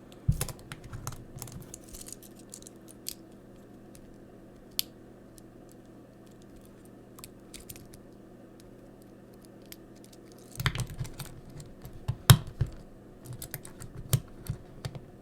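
Small plastic Transformers Siege figures clicking and knocking as they are handled. There are scattered clicks at first and a quieter stretch in the middle, then a busier run of clicks and knocks in the last few seconds, with one sharp knock standing out. A faint steady hum runs underneath.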